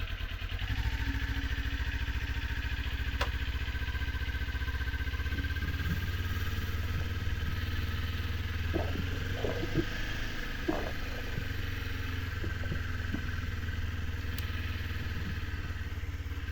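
Kawasaki Z400 motorcycle's parallel-twin engine running steadily as the bike is ridden at low speed, with a couple of sharp clicks.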